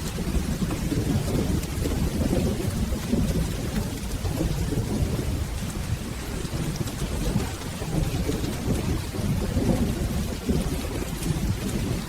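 Steady rain with low, rolling thunder rumbling underneath.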